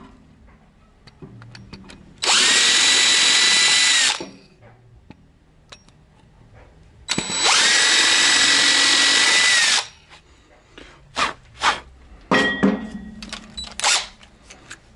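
Electric drill run twice, about two seconds each time, with a steady high whine that spins up at the start and winds down at the end. Several sharp clicks and knocks of tool handling follow.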